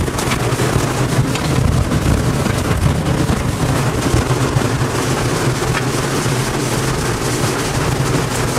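Loud, steady rumbling roar of tornado winds buffeting the armored TIV2 intercept vehicle, heard from inside it.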